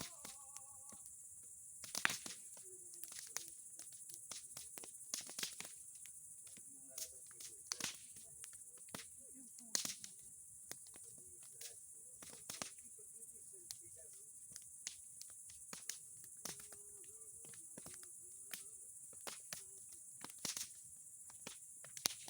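Wood bonfire crackling: irregular sharp pops and snaps from burning boards and pine cones, some louder than others, over a steady high-pitched background.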